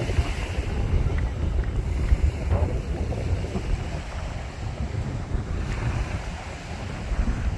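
Wind buffeting the microphone in uneven gusts, a heavy low rumble, over the wash of sea waves on the shore.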